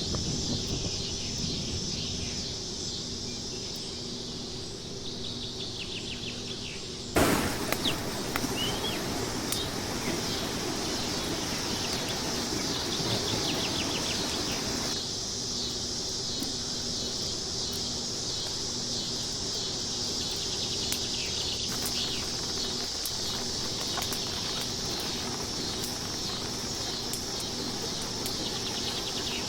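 Outdoor ambience of a steady, high insect drone with scattered bird chirps. A sudden knock about seven seconds in is followed by several seconds of louder, noisy rustle.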